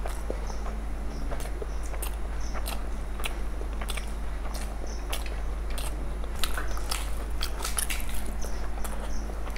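Two people chewing and biting mouthfuls of masala fried rice eaten by hand, close to the microphone: irregular wet clicks and smacks, about one or two a second, over a steady low hum.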